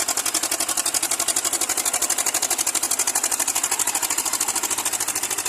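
Tractor diesel engine running steadily with an even, rapid chugging beat of about ten pulses a second.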